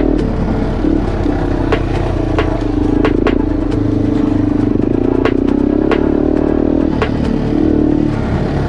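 Yamaha TW200's air-cooled single-cylinder four-stroke engine running under a varying throttle, its pitch rising and falling, while the bike is ridden over a sandy trail. Sharp knocks and clatter from the bike come every half second or so.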